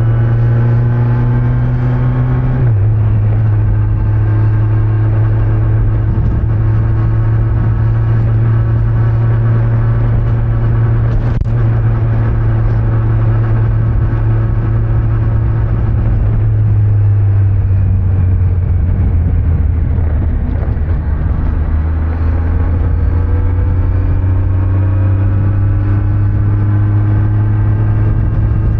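Kawasaki Z900's inline-four engine running on the road, with wind and road noise, recorded from a backpack-mounted microphone. The engine pitch steps down about three seconds in, holds steady, wavers in the middle, then climbs steadily near the end as the bike accelerates.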